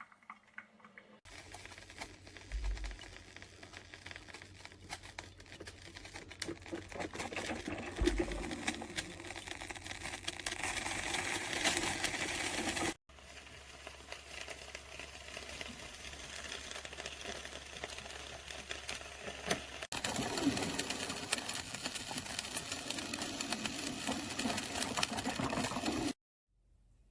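Drip coffee maker brewing: irregular gurgling and sputtering with quick crackling clicks, in several pieces that stop and start abruptly.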